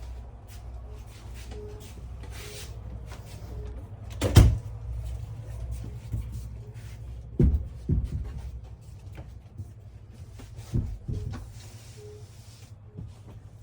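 A series of knocks and thumps inside a travel trailer, the loudest about four seconds in and several more in the second half, over a steady low hum.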